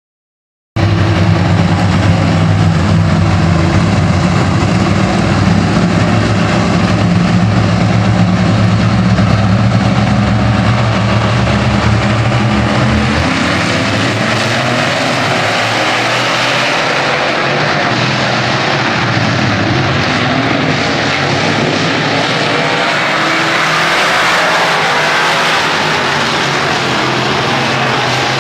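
Several racing engines running. For the first dozen seconds there is a steady engine drone, then it becomes a busier mix of engines rising and falling in pitch as the cars rev and pass.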